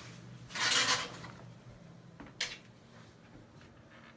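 A brief scraping swish, then a single sharp click about two seconds later, like something being slid or pushed and then latching or knocking.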